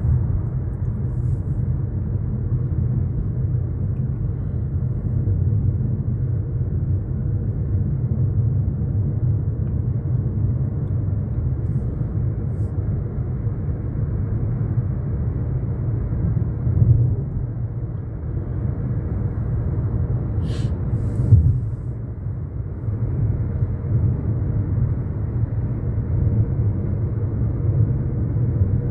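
Steady low road and engine rumble inside a moving car's cabin, with two brief sharp clicks about twenty seconds in.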